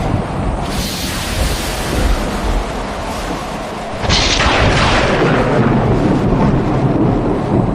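Thunder cracking twice over falling rain: once about a second in, then more loudly about four seconds in, each crack fading away slowly.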